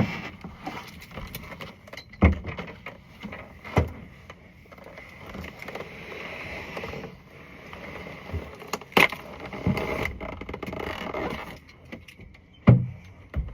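Knocks, thumps and rustling of someone climbing into a Peugeot 205 hatchback through its boot: scattered sharp knocks over a steady rustle that swells through the middle.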